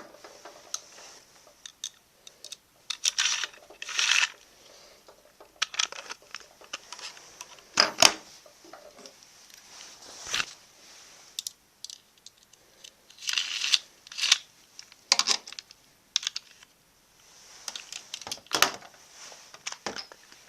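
Irregular plastic clicks, knocks and short rasps as Beyblade tops and ripcord launchers are handled and readied for a battle.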